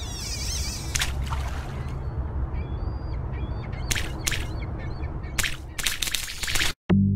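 Harsh bird calls: several short, rough cries, most of them in the second half, over a steady low rumble.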